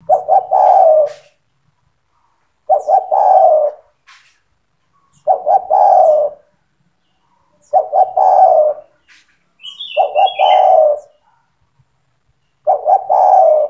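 Spotted dove cooing repeatedly, six call phrases about two and a half seconds apart, each a couple of short notes running into a longer coo. A faint high chirp from a small bird comes in about two-thirds through.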